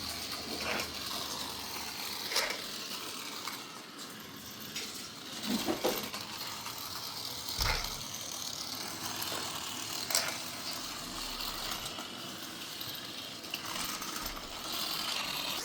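Toy Jeep's small gears and plastic wheels rattling as it moves along, with scattered clicks and knocks.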